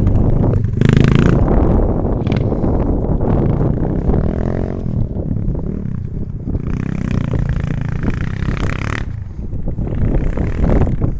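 Enduro motorcycle engine running and revving while being ridden off-road, its pitch rising and falling with the throttle.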